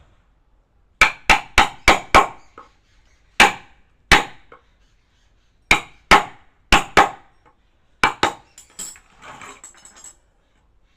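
Wooden mallet striking a carving chisel into wood: sharp knocks with a brief ring, coming in short runs of several blows with pauses between. Near the end comes a softer scraping, like the chisel paring the surface.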